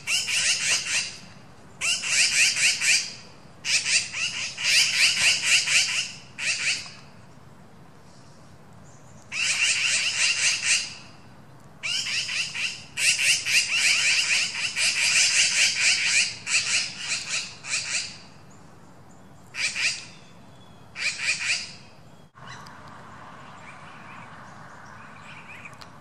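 Birds singing in repeated bursts of rapid chattering trills. Each phrase lasts from half a second to about three seconds, with short pauses between. Near the end a single click is followed by a faint steady hiss.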